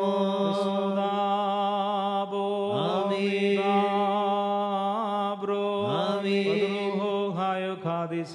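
Liturgical chant in an Orthodox church service: a voice holds long, steady notes, and each new phrase begins with a rising slide in pitch, about three seconds apart.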